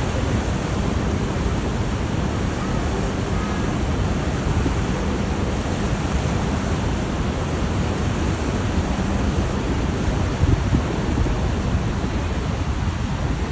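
Niagara River rapids rushing, a steady, loud roar of fast white water.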